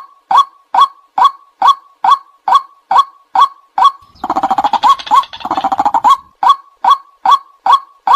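White-breasted waterhen calling: a loud, sharp 'kwak' note repeated steadily, a little over twice a second. About four seconds in, it breaks into a faster, harsher chattering run lasting about two seconds, then the steady notes resume.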